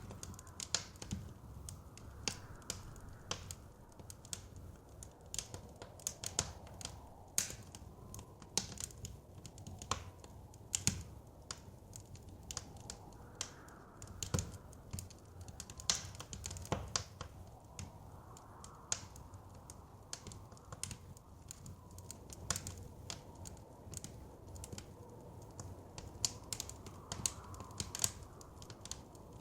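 Wood fire crackling with frequent sharp, irregular pops and snaps over a low rumble, while soft wind noise swells and fades in the background.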